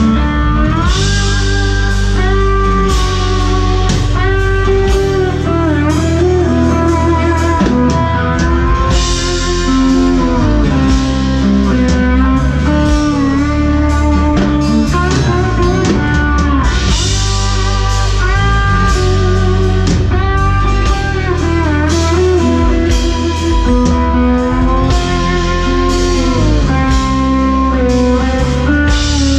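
Blues-rock band music: an electric guitar plays a lead with bending, sliding notes over bass and drums.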